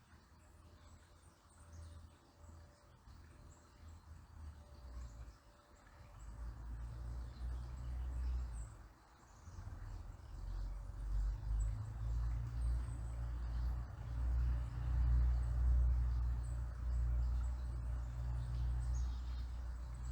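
A river babbling steadily, with faint bird chirps above it. A low, gusty rumble builds up from about a third of the way in and becomes the loudest sound, typical of wind buffeting the microphone.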